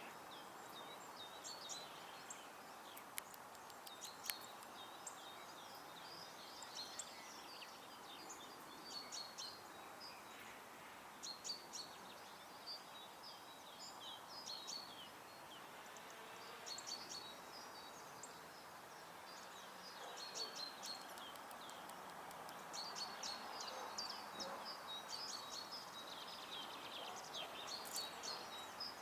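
Garden songbirds singing and calling in short repeated chirpy phrases over a steady background rush, with two sharp clicks about three and four seconds in.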